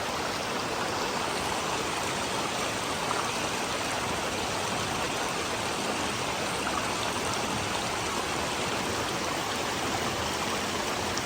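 A small creek's water flowing, a steady, even hiss of moving water.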